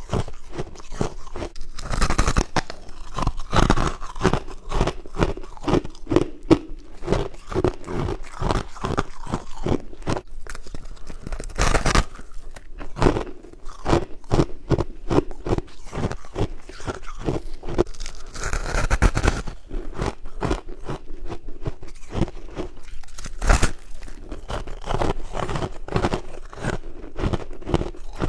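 A person biting and chewing white frost close to the microphone: rapid crisp crunches, several a second, with louder bites every few seconds.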